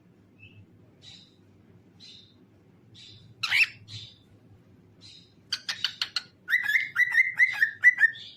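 Cockatiel chirping softly a few times, a louder call about three and a half seconds in, then a quick run of clicks and a string of about five repeated whistled notes near the end.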